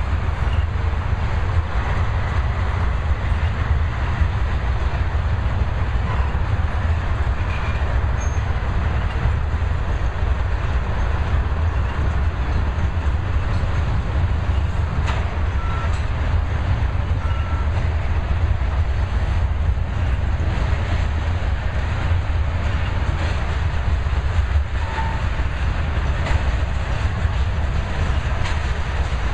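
Loaded railroad tank cars of a freight oil train rolling past: a steady, heavy rumble of steel wheels on rail, with occasional clicks and a couple of brief faint squeaks.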